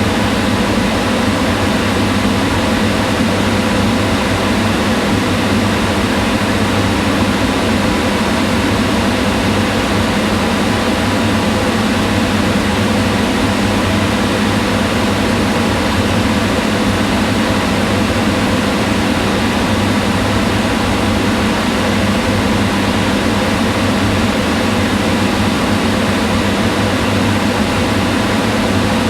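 Kitchen range hood fan running steadily: an even whooshing of air over a low motor hum.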